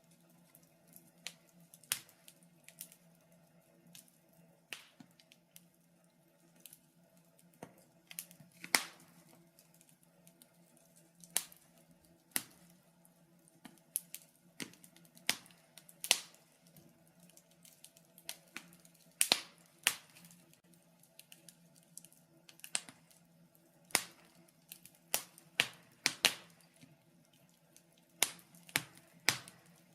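Wood fire crackling in a fireplace: irregular sharp pops and snaps, a few of them loud, some coming in quick clusters, over a faint steady hum.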